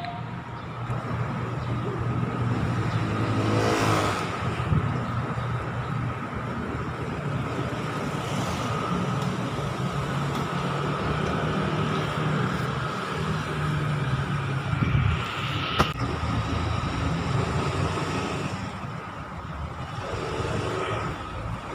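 Street traffic: a steady rumble of engines, with several vehicles passing close by one after another, and a single sharp click about sixteen seconds in.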